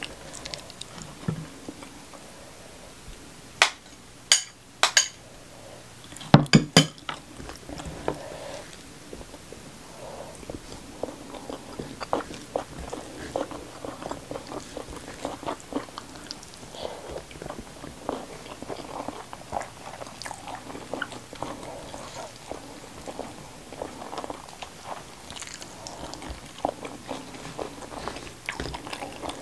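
Close-miked eating by hand: a few loud, crisp crunching bites about four to seven seconds in, then steady chewing with many small wet mouth clicks, as rice, fried pomfret and raw greens are chewed.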